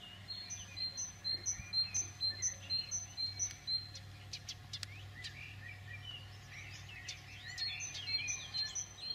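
Birdsong: a bird repeating a short high two-note chirp about twice a second, in a run of several seconds and again near the end, over a steady low hum.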